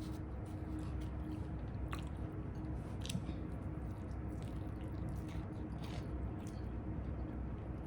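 Close-up chewing and biting on a Flamin' Hot Doritos-coated chicken wing, with a few sharp crunchy clicks over a steady low hum.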